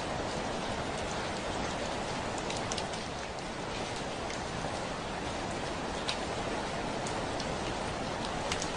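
Steady rain falling on a window: a continuous hiss of rain with scattered sharper drop ticks against the glass.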